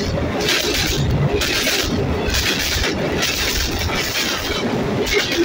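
Loaded CSX rock train rolling directly over the camera at very close range: a steady low rumble with a rushing clatter that swells and fades about once a second as the cars pass overhead.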